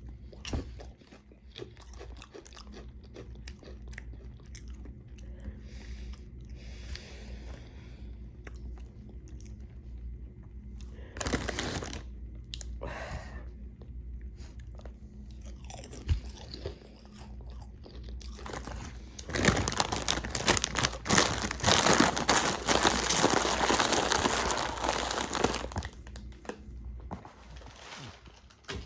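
A person biting into and chewing crunchy chips close to the microphone, with a run of crisp crunches. The crunching gets loudest and most continuous for several seconds a little past the middle.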